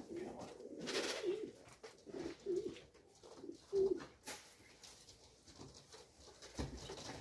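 Pigeons cooing, a run of short low calls in the first half, with a brief rustle about a second in.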